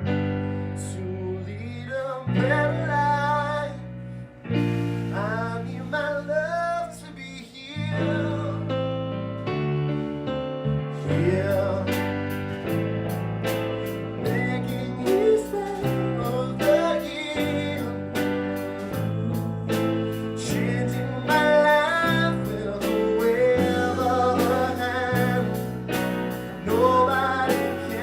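A band playing a song with a singer and guitar; the music starts suddenly and drums come in about eleven seconds in with a steady beat.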